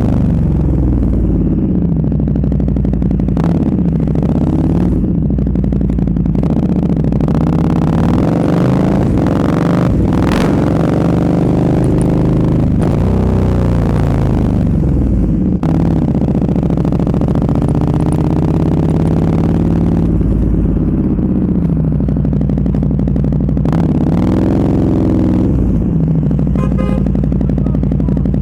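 Sport motorcycle engine through an aftermarket SC-Project exhaust, loud throughout, its revs rising and falling again and again as the bike accelerates, shifts and slows.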